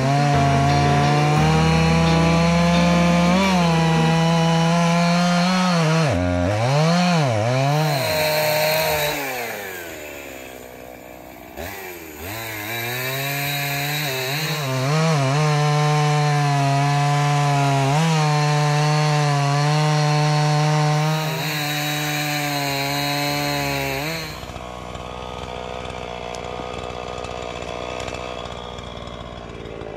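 Gas chainsaw cutting through a fallen tree, held at high revs for long stretches; its pitch swings up and down a few times and falls to a low, quieter idle for a couple of seconds before it is run up again. Near the end the revs drop and it runs lower and quieter.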